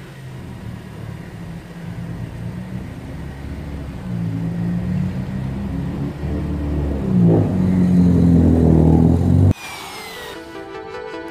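A car engine running and revving, growing louder with shifts in pitch, then cutting off suddenly near the end as background music begins.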